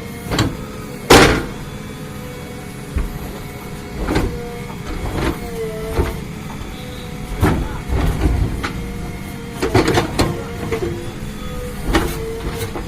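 A JCB backhoe loader working: its diesel engine runs with a steady whine that wavers in pitch now and then. Repeated knocks and scrapes come from the bucket digging into stony ground, the loudest about a second in.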